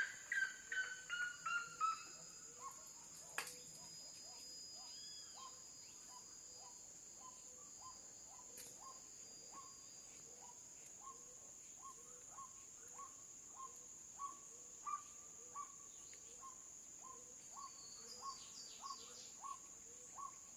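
Red-legged seriema calling: a run of loud yelping notes that fall in pitch and fade over the first two seconds, then shorter, quieter notes repeated steadily, with a brief burst of higher notes near the end. A continuous high insect buzz goes on underneath.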